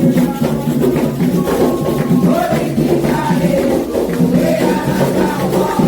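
Candomblé ritual song for the orixás: voices singing a wavering melody over steady, dense hand percussion.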